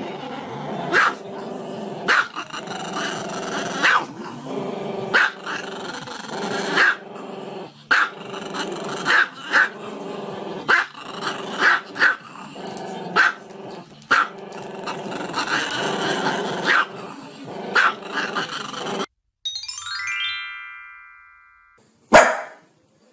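A dog barking in short, irregular barks about once a second over background music. Near the end the music stops abruptly, a rising chime plays and fades, then one loud bark.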